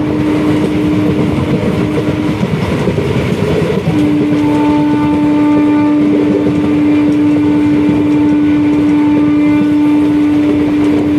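Train in motion: a steady rumble with a strong steady hum that breaks off about two seconds in and comes back about four seconds in.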